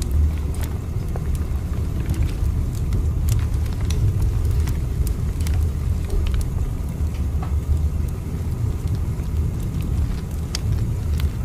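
Steady low rumble of a train running, with scattered light clicks over it.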